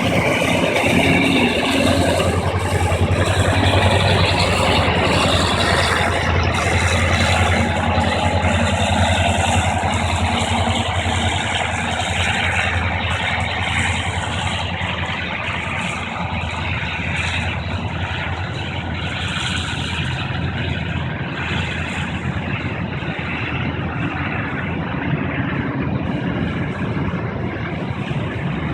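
Freight train passing, with a steady rolling rumble from the wagons and a low hum, loudest in the first few seconds and then easing a little.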